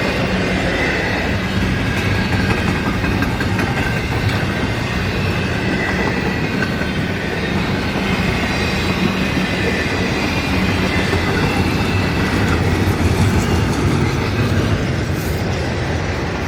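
Freight train cars rolling past at track speed: a steady loud rumble of steel wheels on rail, with faint high wheel squeal at times.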